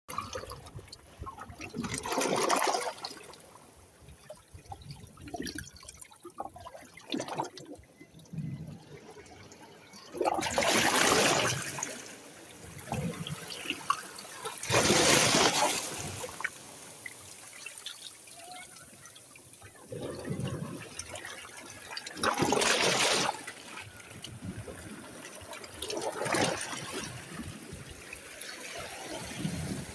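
Sea water washing and splashing in surges every few seconds, with a quieter trickling in between.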